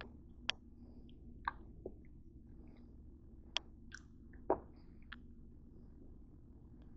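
A person chewing close to the microphone: scattered small clicks and mouth noises, the loudest about four and a half seconds in, over a faint steady hum.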